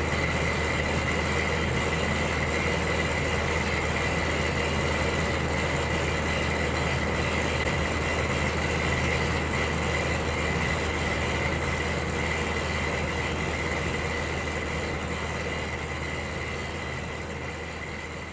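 Electric heater running with a steady hum and even rushing noise, with a thin high whine over it. The sound fades gradually over the last few seconds.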